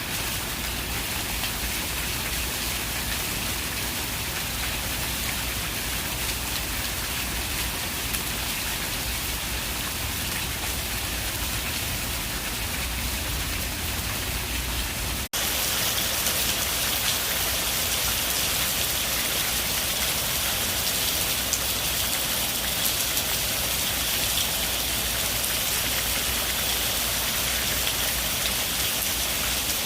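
Steady rain falling, a dense even hiss. About halfway through it cuts out for an instant and comes back slightly louder and brighter.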